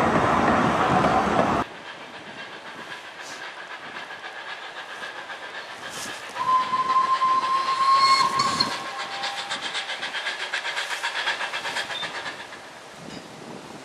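Narrow-gauge train clattering past on the rails, cut off suddenly near the start. About halfway through, a locomotive whistle gives one steady blast of about two seconds, followed by a quick, even pulsing beat as the locomotive approaches.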